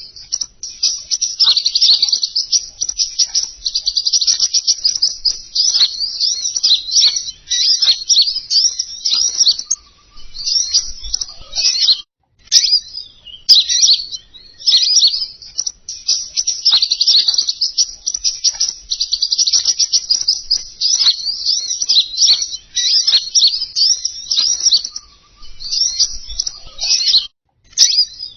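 Rapid, high-pitched chirping and twittering song of the kingkonin bird, played as a lure call for bird catching. The calls run in dense strings and break off briefly about twelve seconds in and again near the end.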